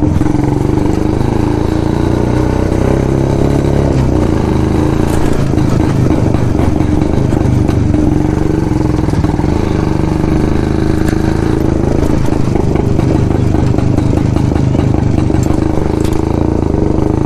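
1972 Jawa 250cc two-stroke single-cylinder motorcycle engine running steadily through its twin exhausts, with its characteristic two-stroke beat.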